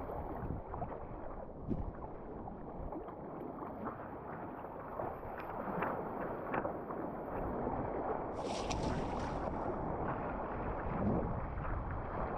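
Water rushing and splashing around a kayak surfing on waves, with wind buffeting the microphone; the rush grows brighter and louder for a second or two about two-thirds of the way in.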